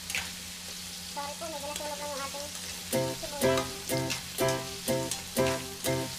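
Diced carrots and potatoes sizzling as they fry in a metal wok while a spatula stirs them. Background music comes in about halfway through with a steady beat of about two notes a second.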